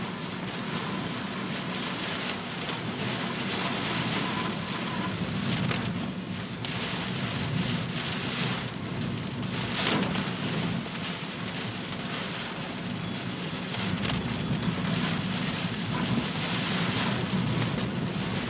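Heavy typhoon rain pouring down steadily, with a brief louder swell about ten seconds in.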